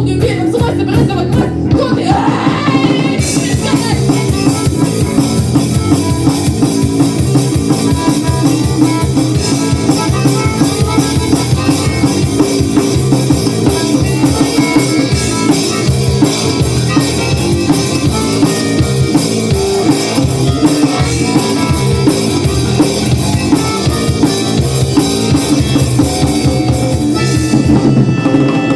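Rock band playing an instrumental passage of the song, with a drum kit keeping a steady beat.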